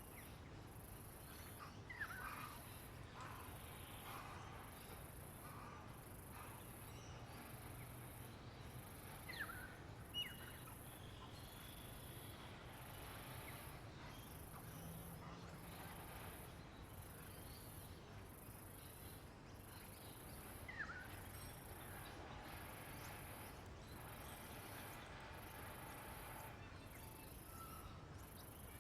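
Faint outdoor nature ambience: an insect's high-pitched buzz pulsing evenly, a little under once a second, throughout, with a few short bird chirps scattered through it, the sharpest a couple of seconds in and again around ten seconds.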